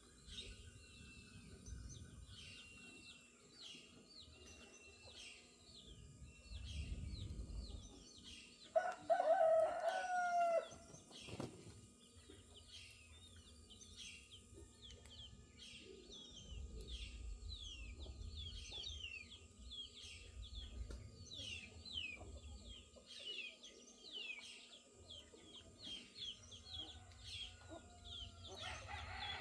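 A rooster crows once, loudly, about a third of the way in, and another crow starts right at the end. Under it, small birds keep up a steady run of short, quick chirps.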